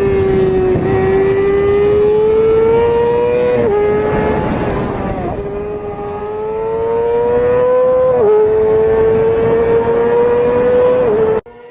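A vehicle engine accelerating hard through the gears: its pitch climbs steadily and drops sharply at each upshift, four times. It cuts off suddenly near the end.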